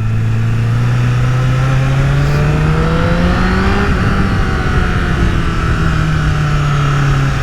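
Honda CBR1000RR Fireblade's 998 cc inline-four pulling in first gear under way: the engine note climbs steadily for about four seconds, then holds at a steady pitch.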